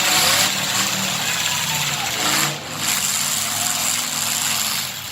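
Truck engine running amid steady mechanical noise, with a brief drop in loudness about two and a half seconds in.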